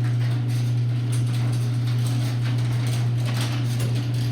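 LiftMaster 8165 chain-drive garage door opener running with a steady low hum as it moves the sectional door, with faint clicking and rattling from the chain and door throughout.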